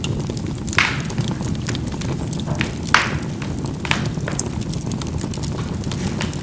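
Charcoal burning in a fireplace: a steady low rumble of fire with sharp crackling pops as the charcoal bursts. The loudest pop comes about three seconds in, with others just under a second in and about four seconds in, and small ticks between.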